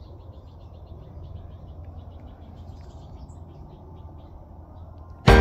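A bird chirping faintly and repeatedly, several short high notes a second, over a low steady rumble. Loud music starts suddenly just before the end.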